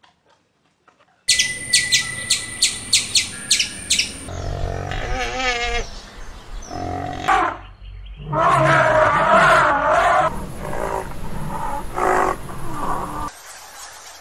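A string of animal calls after a second of near silence: a quick run of sharp, evenly spaced chirps, then a wavering warbled call, then louder, longer calls, dropping to quieter outdoor ambience near the end.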